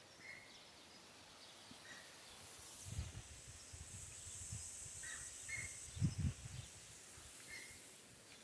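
Garden irrigation sprinklers spraying, a steady high hiss that swells in the middle, with short bird chirps now and then and two low thumps about a third and two-thirds of the way through.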